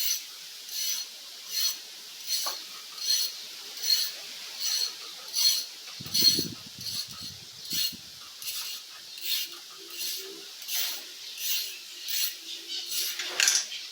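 Hand file rasping back and forth on a steel part in steady, even strokes, a little more than one a second. There is a brief low rumble about six seconds in.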